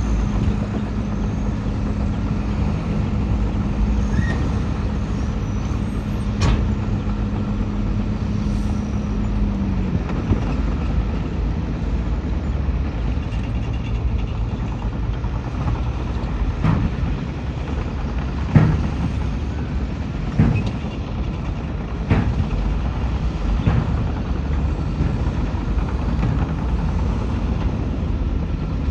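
Heavy diesel earthmoving machinery running steadily, its engine note shifting lower about ten seconds in. Several sharp metallic knocks come in the second half.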